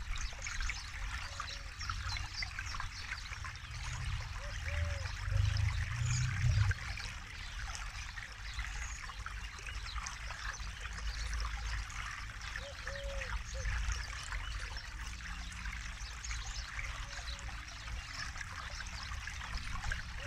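Forest river flowing, a steady trickling babble of water with a low rumble underneath that swells for a couple of seconds about four to six seconds in.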